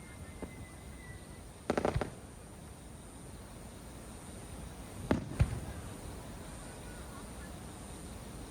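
Aerial fireworks bursting: a faint whistle slides slightly down and fades in the first second or so, then a quick rattle of several bangs follows about two seconds in. Two more single bangs come about five seconds in.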